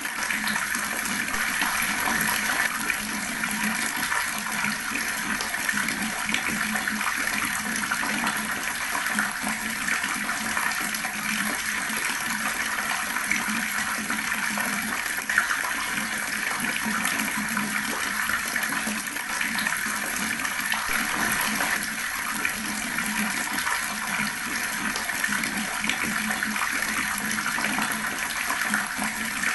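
Water running steadily from a tap in a continuous splashing stream.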